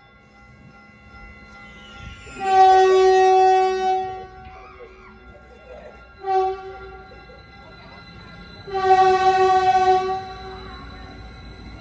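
Caltrain passenger train sounding its horn in three blasts, long, short, long, over the running rumble of the train.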